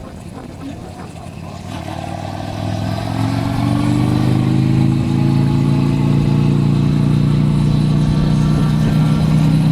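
Motorcycle engine heard from the rider's helmet, running quietly at first, then accelerating about two seconds in, its note rising and settling into a steady, loud run.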